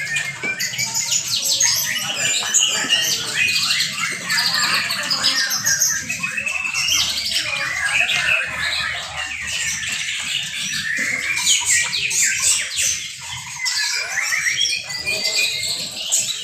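Several young white-rumped shamas (murai batu) singing at once, a dense, unbroken tangle of fast repeated notes, trills and whistles.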